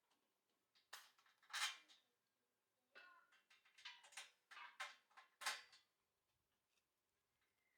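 Small metal objects clinking and clattering as they are handled, in about six short bursts over the first six seconds, then near silence.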